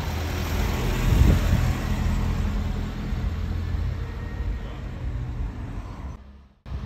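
Classic first-generation BMW 3 Series (E21) driving off past and away. The engine gets loudest about a second in, then fades as the car moves off. The sound drops out suddenly for a moment near the end.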